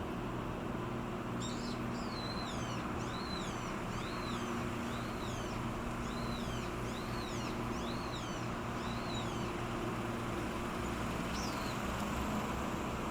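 Steady low drone of a pusher tug's engine under way, with a small bird calling over it: a run of short, arched chirps repeated about twice a second from a second and a half in, then one more chirp near the end.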